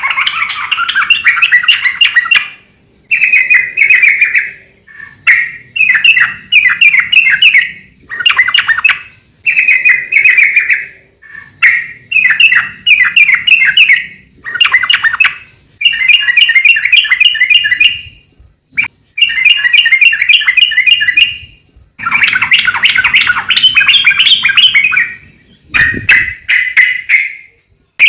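Yellow-vented bulbul singing in full voice: a steady run of short, bubbly chattering phrases, each a second or two long, following one after another with brief pauses.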